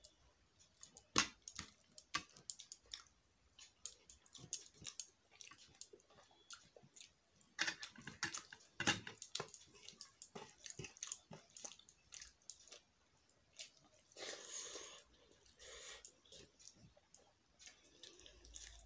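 Close-up eating sounds: chewing and smacking mouthfuls of rice, with the soft squish of fingers mixing rice on a metal plate and many short, sharp clicks.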